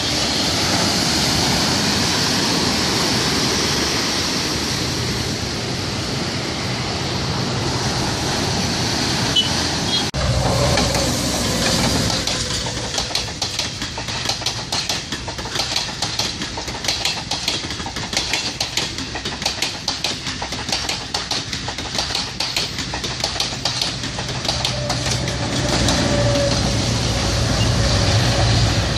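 Diesel passenger train passing close at speed, its wheels clattering rapidly over the rail joints. Near the end, a train's engine hums steadily as it approaches. Before the train, for about the first third, a steady wash of sea surf and wind.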